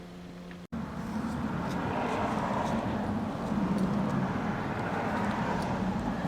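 Vehicle noise: a steady, even rumble that starts abruptly about a second in and swells slightly in the middle, like a car going by.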